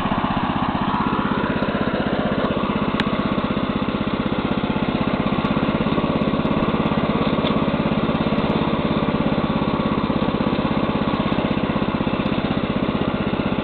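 Neva MB-2 walk-behind tractor's newly fitted single-cylinder petrol engine running steadily under load as the tiller tines churn manure into the soil; the engine is being run in.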